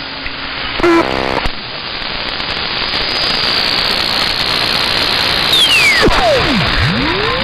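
CB radio receiver hissing with static as it is tuned up the band, with a short buzzy tone about a second in. Around six seconds in a whistle slides steeply down from high to very low, then rises again near the end: a heterodyne whistle from tuning across a signal.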